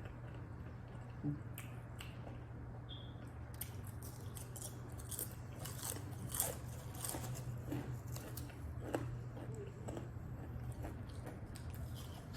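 Close-miked chewing of a sandwich with potato chips tucked inside: a run of crisp crunches and wet mouth sounds that gets busier a few seconds in, over a low steady hum.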